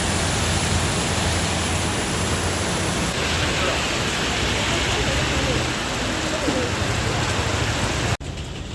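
Heavy monsoon rain pouring down, a dense steady hiss. It cuts off abruptly shortly before the end to a quieter scene.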